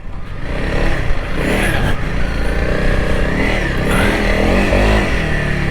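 Honda CRF300L Rally's single-cylinder engine pulling through soft sand, its revs rising and falling with the throttle.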